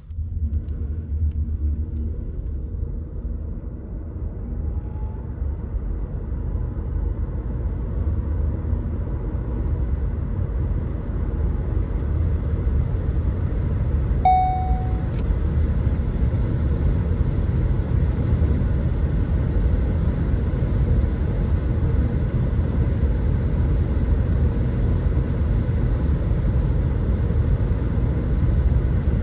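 Inside the cabin of a 2017 VW e-Golf under hard acceleration: low road rumble and wind noise building as speed rises, with a faint rising electric-motor whine. A single short dashboard chime sounds about halfway through.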